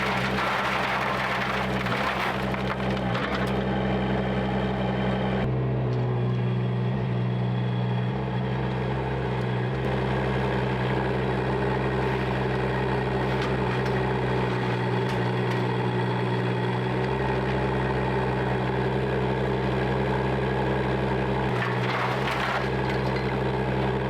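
An engine running steadily at constant speed, a low, even drone that does not change in speed.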